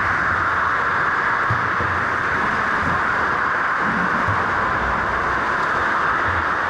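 Steady rushing noise of swimming pool water and splashing, a constant hiss with no distinct strokes or events.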